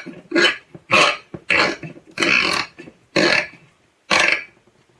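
Packing tape pulled off a 3M H180 tape gun in about six short, raspy pulls. The tape peels off freely even with the tension adjuster tightened all the way: the dispenser's brake no longer holds the roll.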